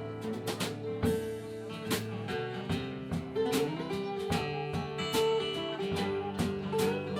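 Live country band playing an instrumental passage between sung verses: strummed guitars over a steady beat on drums.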